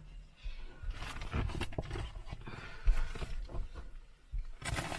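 Bags and small packed items being handled and moved: irregular rustling, with a sharp knock about three seconds in and louder crinkling near the end.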